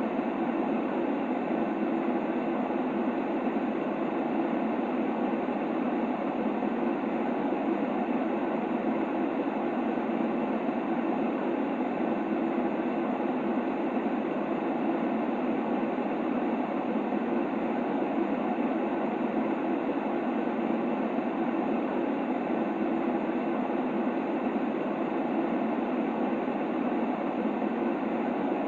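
Baby-sleep white noise: an even, unbroken rushing hiss, heaviest in the low-middle range with little high end.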